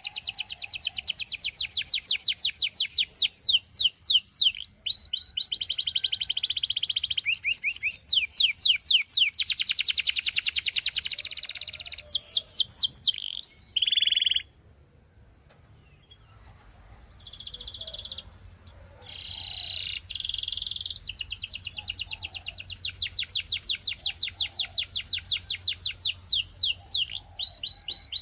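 Canary singing a long song of rapid high trills: quick sweeping notes repeated many times a second, switching to a new trill every second or two. It pauses briefly about halfway, then the trills resume.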